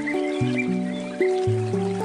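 Soft handpan melody: a string of struck steel notes, each ringing on as the next is played, several to the second, over a faint steady wash of flowing water. A few short, faint bird chirps come through in the first second.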